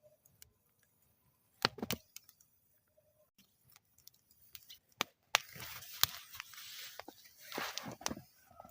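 Wood fire burning in a metal fire bowl, with sharp crackles and pops. A stretch of steady hissing from the flames sets in about five seconds in and runs until just before the end.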